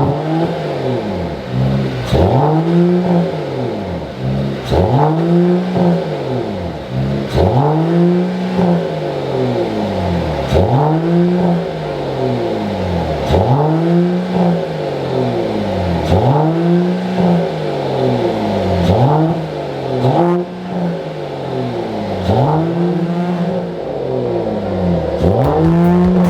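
Mercedes-Benz E450 Cabriolet's inline-six revving again and again through a full straight-pipe exhaust, mid-pipe to tips. Each rev climbs in pitch and falls back, about every two and a half seconds.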